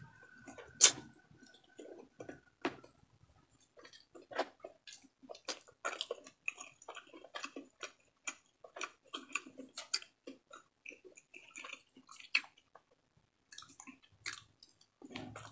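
Close-miked chewing and lip smacking while eating with the fingers: many short, irregular wet clicks and crunches, with a brief pause near the end.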